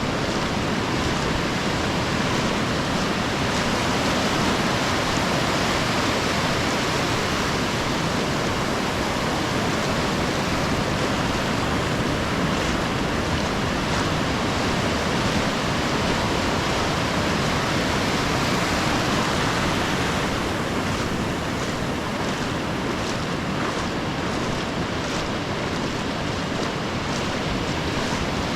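Ocean surf breaking and washing up a sandy beach, a steady rushing that eases slightly about two-thirds of the way through.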